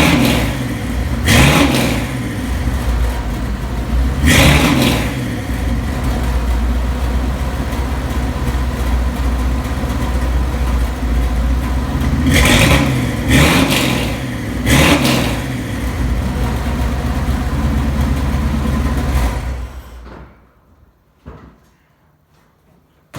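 Big-block V8 of a 1984 Chevrolet K30 crawler idling through a new 2.5-inch exhaust with cheap chambered mufflers, blipped on the throttle in about six short revs, then shut off about 20 seconds in. It sounds loud and echoes inside the building.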